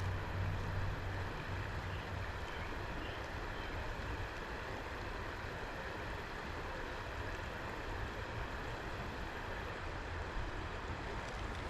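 Steady rushing of flowing creek water, with a low rumble underneath.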